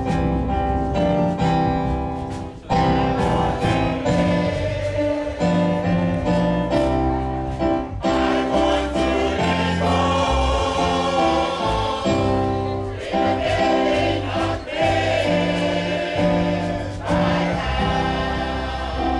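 A choir singing gospel music in sustained chords, with instrumental accompaniment.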